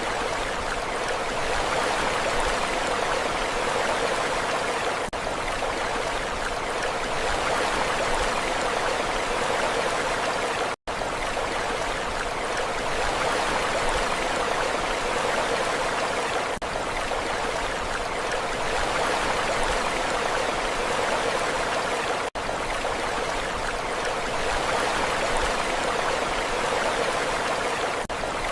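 Steady rushing water with no swell or surge, the level flat throughout. Brief cut-outs come every five to six seconds, the loop seams of a repeated recording, the deepest a momentary gap about eleven seconds in.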